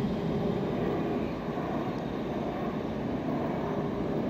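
Double-deck car-carrier wagons of a motorail train rolling past, loaded with cars: a steady noise of wheels running on the rails.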